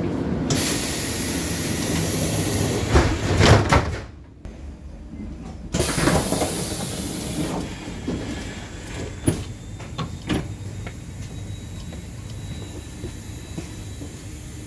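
Stadtbahn light-rail car doors closing: a loud air hiss with closing knocks about three to four seconds in, a second hiss about six seconds in, then a few sharp clicks over the car's steady low rumble.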